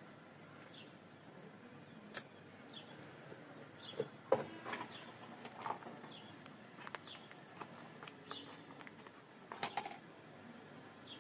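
Faint birds chirping, short falling calls every second or so, with a few sharp clicks and knocks, the loudest about four seconds in and again near the end.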